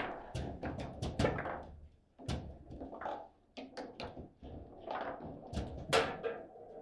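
Table football being played: a quick, irregular run of sharp knocks and clacks as the ball is struck by the rod figures and bangs off the table walls, with rods clattering in their bearings. The loudest knock comes about six seconds in.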